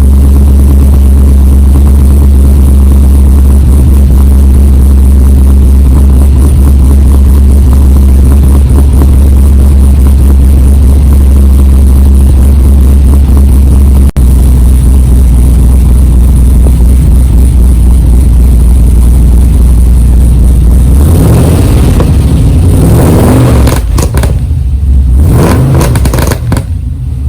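V8 engine running through a newly fitted X-Force 3-inch exhaust with headers, idling steadily with a deep low note. From about three-quarters of the way in it is revved several times, the pitch climbing and falling with each blip.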